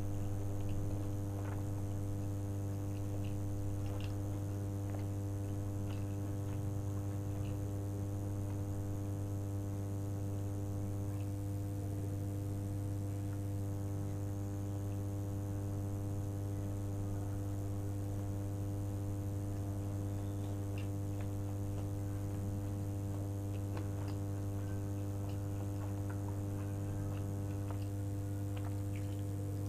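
A steady low hum throughout, with faint scattered clicks of a person chewing food.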